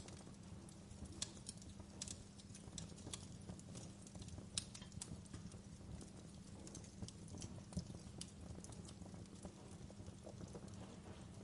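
Wood fire burning in a fireplace: burning logs crackling, with irregular sharp pops and snaps over a low steady rumble.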